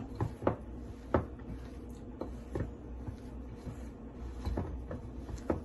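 Scattered light knocks and clicks against a bowl as mashed potato filling with cornflour is mixed, about half a dozen irregular taps over a faint steady low hum.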